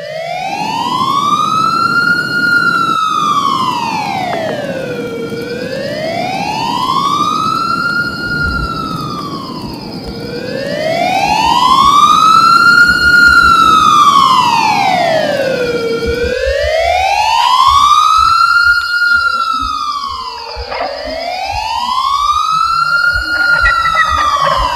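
Wailing siren rising and falling slowly, about one sweep every five seconds, over a steady high whine; a low rumble underneath drops out about two-thirds of the way through.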